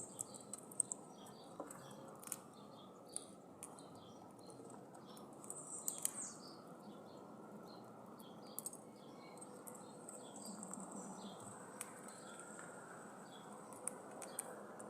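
Birds chirping in short, high, thin calls, with a few quick falling call series and scattered sharp clicks over a steady outdoor hiss.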